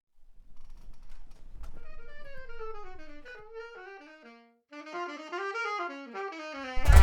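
Solo saxophone playing two descending melodic phrases with a brief pause between. Near the end a sudden loud noisy thump cuts in.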